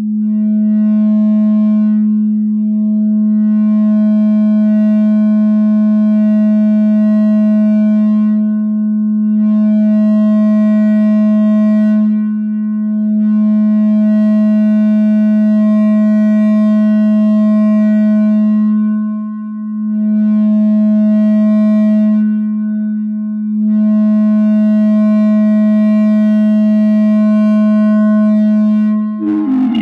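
No-input mixer feedback drone: a loud, steady low tone with a stack of overtones that swell and fade every few seconds, dipping briefly about two-thirds of the way through. Right at the end it breaks into a rougher, noisier texture.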